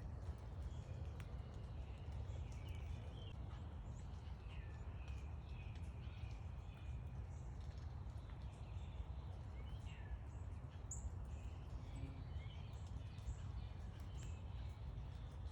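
Backyard birds giving many short, faint chirps and calls over a steady low background rumble.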